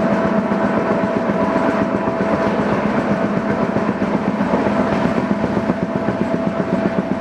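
Humsafar Express passenger train running on the rails: a steady rumble and rattle with a constant whine over it.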